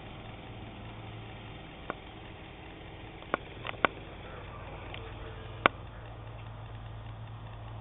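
Low steady engine hum in the distance, with a handful of short sharp clicks scattered through it.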